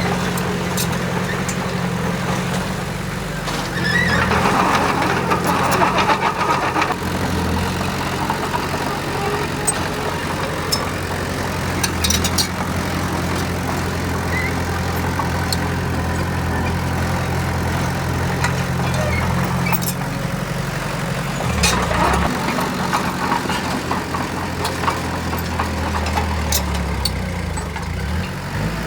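Heavy diesel machinery engine running steadily, with louder stretches of grinding and clanking about four seconds in and again about twenty-two seconds in.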